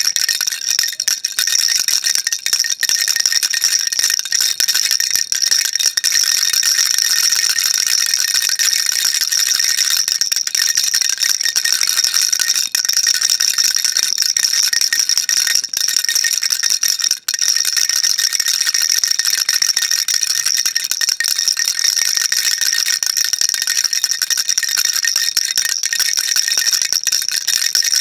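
Baby rattle shaken continuously, a dense high-pitched rattling of small beads, with a brief break about 17 seconds in.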